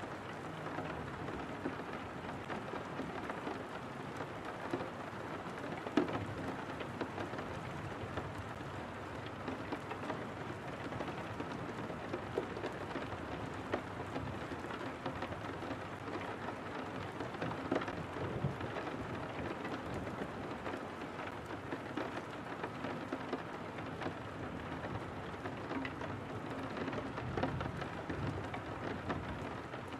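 Steady rain on window glass, a dense even patter, with low rumbles of distant thunder now and then.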